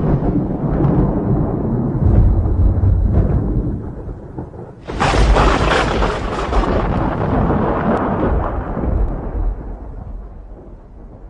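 Thunder rolling in a thunderstorm, then a sharp, close crack about five seconds in that rumbles on and slowly fades away.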